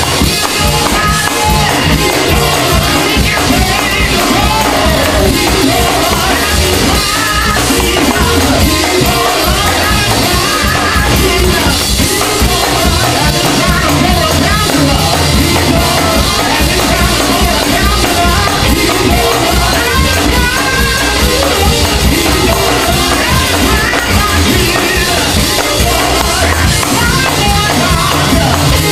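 Live gospel praise and worship music: singing over keyboard and drums, loud and continuous.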